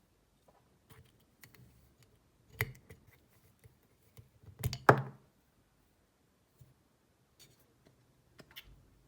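Scattered clicks and knocks of small hard parts being handled. The loudest strikes come about two and a half seconds in and again near five seconds, the second with a brief ring.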